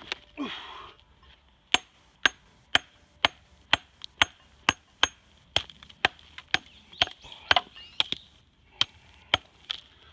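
A steel hammer striking a raw Japanese natural whetstone (Takao sunaita stone) in sharp knocks about twice a second, many with a short high ring, chipping and splitting the stone along its weak layers to dress it. A brief scrape of stone comes just before the strikes begin.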